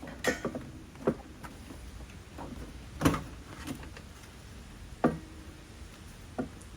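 Scattered knocks and clunks of hand tools and parts being handled while a throttle body is unbolted, about seven at irregular times, the loudest about three seconds in.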